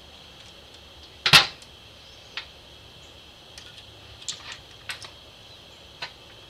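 Clicks and clinks of small metal carburetor parts and hand tools being handled during reassembly: one loud knock a little over a second in, then several lighter scattered clicks.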